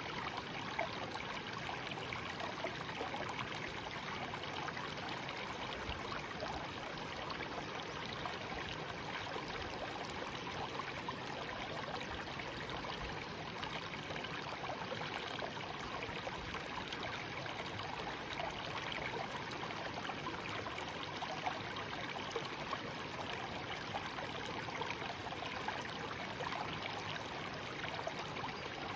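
A shallow stream babbling and trickling steadily over stones.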